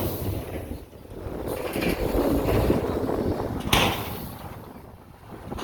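Heavy diesel earthmoving machinery working, its low engine rumble swelling and fading, with a sharp metallic knock about two thirds of the way through.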